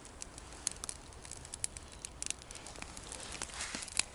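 Small campfire of dry wood, just lit with solid fuel, crackling: irregular faint snaps and pops, several a second.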